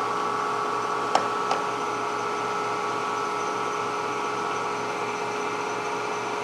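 A steady mechanical whir with a constant hum, with two light clicks about a second in, half a second apart.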